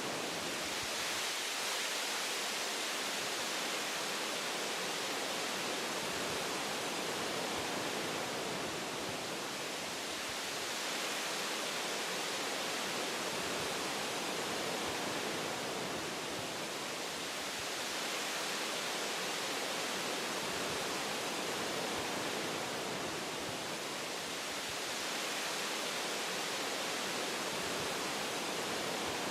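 Wind rushing through tree branches, a steady hiss that swells and eases slowly every several seconds.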